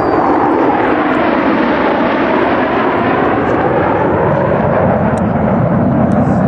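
Jet aircraft engine noise, loud and steady throughout.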